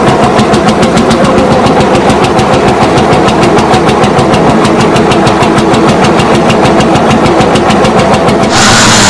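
Tractor diesel engine running loud with an even, rapid thumping beat of about six pulses a second. Near the end it changes abruptly to a steadier engine sound without the beat.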